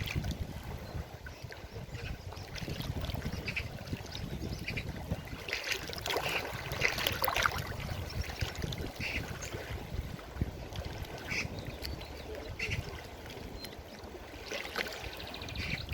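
Forest river water flowing and gurgling, with short splashy bursts scattered through and a louder stretch of splashing about six to seven and a half seconds in.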